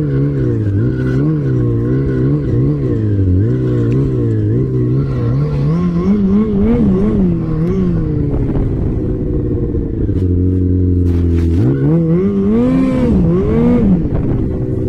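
Off-road vehicle engine working hard, its revs rising and falling again and again as the throttle is worked. About ten seconds in it settles briefly to a steady lower note, then revs up and down again.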